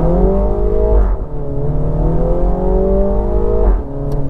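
Mini Cooper S JCW's turbocharged four-cylinder engine and sport exhaust under hard acceleration. The revs climb, fall sharply at an upshift about a second in, climb again, and fall at a second upshift near the end.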